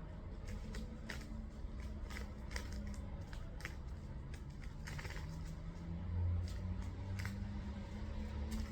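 A low, steady engine hum that rises slightly in pitch midway, with scattered short clicks over it.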